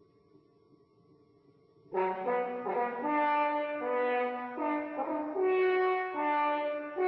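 Brass music, French horn-like, starting suddenly about two seconds in after near silence: a sequence of held notes with several pitches sounding together, changing every half second or so.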